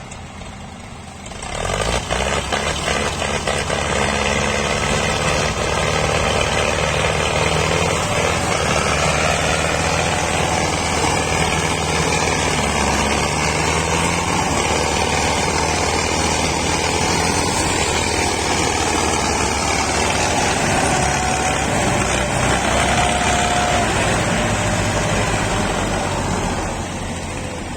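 Tractor diesel engines running hard under load, a dense low rumble that comes up sharply about a second and a half in, holds steady, and eases near the end.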